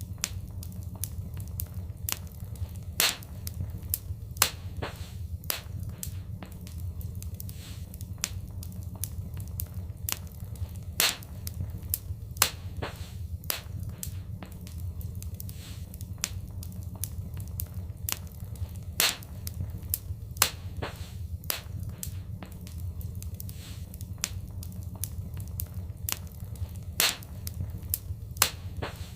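Fireplace wood fire crackling, with frequent sharp pops and snaps, some louder than others, over a steady low rumble of the flames.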